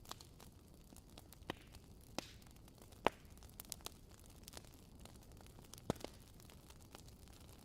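Wood fire crackling: irregular sharp pops and snaps over a faint low hiss, the loudest pop about three seconds in.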